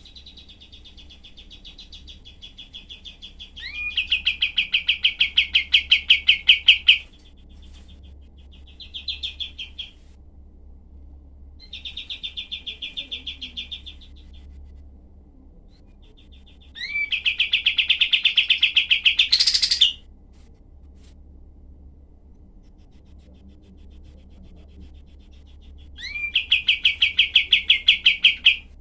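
White-shouldered triller (kapas tembak) singing: bouts of very fast, dry, rattling trills, each one to three seconds long, repeated several times with pauses between. The longest bouts are the loudest.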